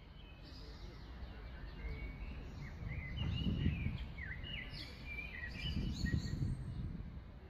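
Birds chirping and singing in short, quick phrases over a low rumbling noise that swells twice.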